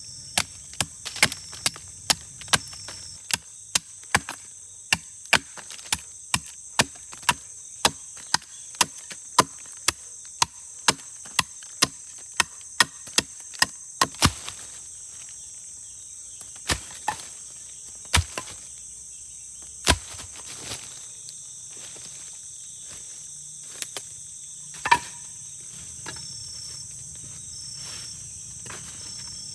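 Wood being chopped with a blade in steady strokes, about two a second, for the first half; then the chopping stops and only a few single strikes follow. Insects chirr steadily and high-pitched in the background.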